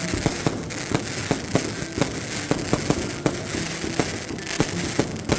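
Fireworks going off in a rapid, irregular string of sharp bangs and pops, about three or four a second, from a batch set off at once.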